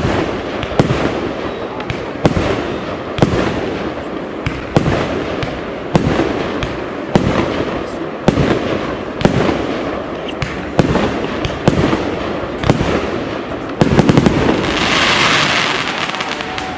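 Fireworks display: aerial shells bursting with sharp bangs about once a second, each trailing off in an echo. Near the end comes a quick cluster of cracks, followed by a loud hissing crackle lasting about two seconds.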